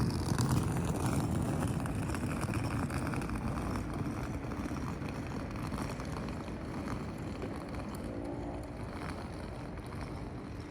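Southeastern electric multiple-unit train running past, loudest at first and fading steadily as it moves away, with a rapid run of clicks in the first few seconds.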